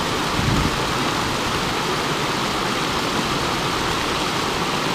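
Mountain river water rushing and splashing over rocks, a steady, even wash of noise.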